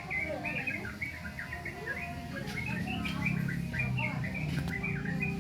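Young yellow-vented bulbul practising its song: a continuous run of short, varied chirps and warbled notes.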